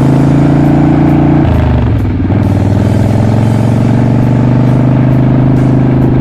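Custom bobber motorcycle engine running loud and steady with a fast firing pulse. The revs drop about a second and a half in, then hold at a lower steady speed.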